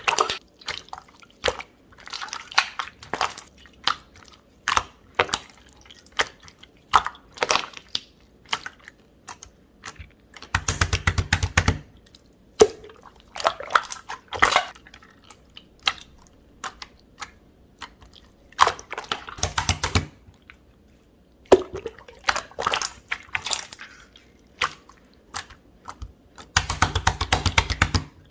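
Pink clear jelly-textured slime being squished and pressed by hand, giving sticky clicks and small bubble pops, with three spells of rapid crackling.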